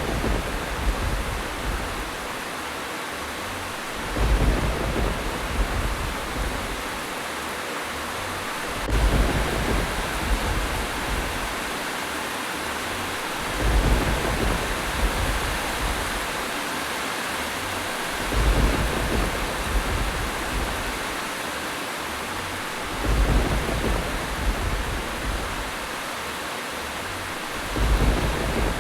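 Steady rain hiss with short, low rumbles of thunder coming at even intervals, about every four to five seconds.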